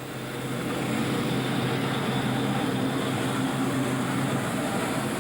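A passing train: a steady low mechanical hum that grows louder over the first second and then holds.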